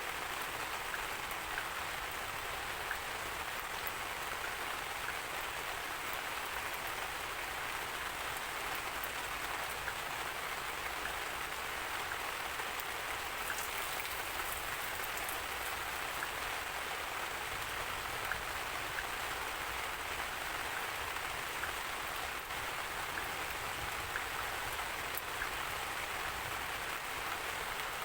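Steady rain falling on a surface: an even hiss with many small drops ticking through it.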